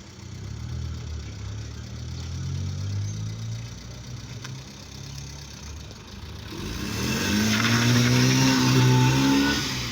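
Car engine running at low revs, then growing louder as the car pulls away and passes close, loudest near the end.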